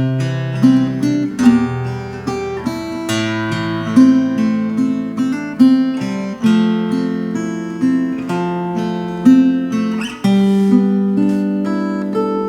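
Veelah Mini Camper R mini acoustic guitar played solo, recorded dry with no effects: plucked chords over a moving bass line with melody notes on top, and a full chord struck about ten seconds in that rings on.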